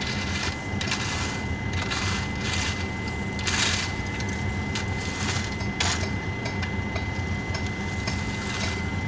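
A machine engine running steadily at idle, with short, irregular scrapes of hand tools working gravel and dirt.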